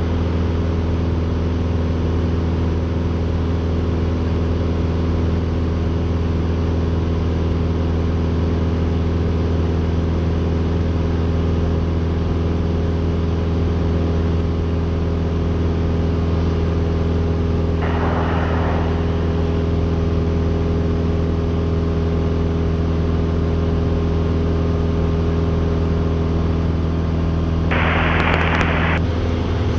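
Cessna 172's four-cylinder piston engine and propeller droning steadily in the cabin during a climb. There is a short burst of hiss about two-thirds of the way in and a louder one near the end.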